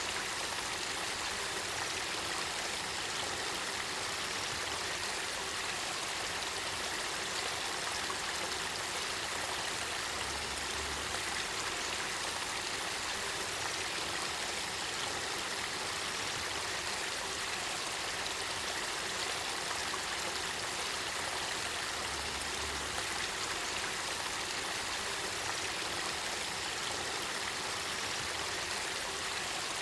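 Spring water from the Kakita River springs flowing and babbling in a steady, even rush.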